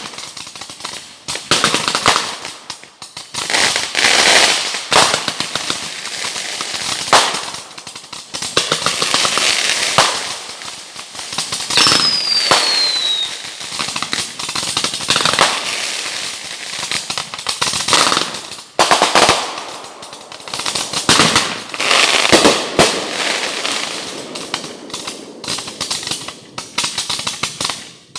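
Backyard consumer fireworks going off in rapid succession: repeated sharp bangs and crackling bursts. About twelve seconds in there is a short falling whistle.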